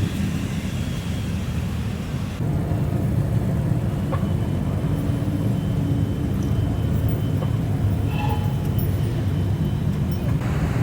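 Exhausts of modified custom cars running with a low rumble. The sound changes abruptly twice, near the start and about two seconds in.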